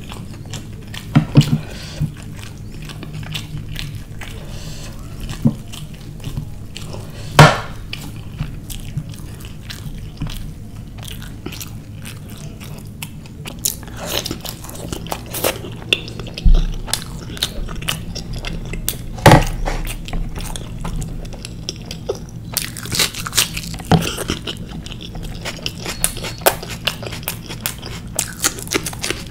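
Close-miked chewing and mouth sounds of a person eating naan, rajma and rice by hand: wet smacks and sharp clicks with occasional crunches, heard over a steady low hum.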